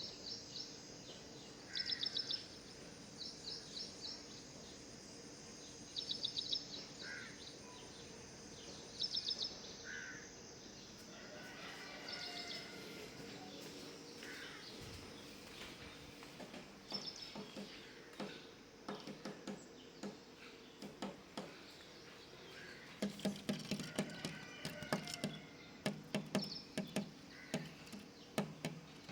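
Small bird chirping in short, rapid bursts of high notes, repeated every couple of seconds. A run of quick taps or knocks follows in the second half.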